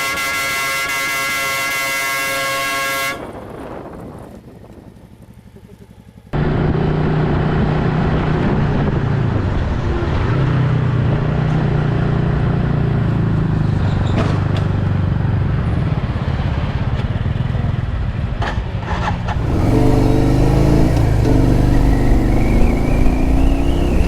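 A steady held tone that fades out after about three seconds, then a motorcycle engine running, with its pitch rising as it revs in the last few seconds.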